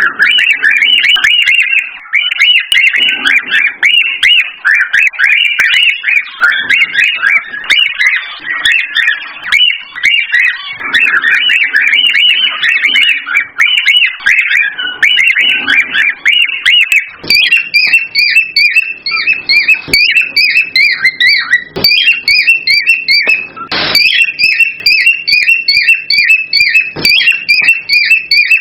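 Cockatiels chirping and whistling rapidly and continuously. From a little past halfway the calls settle into a regular, fast run of repeated chirps.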